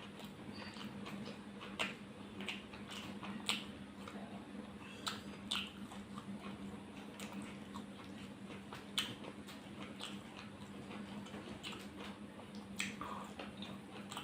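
A person chewing mouthfuls of curry and rice, with irregular wet mouth clicks and smacks, over a steady low hum.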